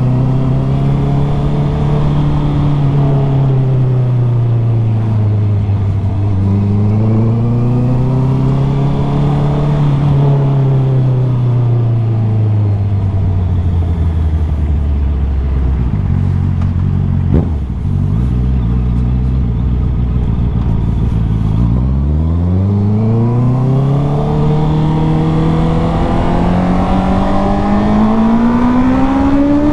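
Motorcycle engine under way, its pitch rising and falling with the throttle. It drops low and steady for several seconds past the middle, with a single sharp click, then climbs steadily toward the end.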